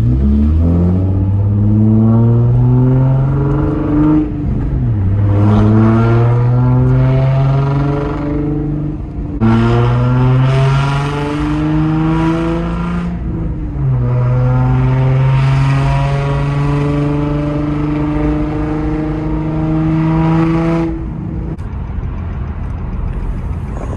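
Nissan Z car's V6 engine accelerating hard through the gears, heard from inside the car: the pitch climbs and falls back sharply at three upshifts, holds steady, then eases off near the end.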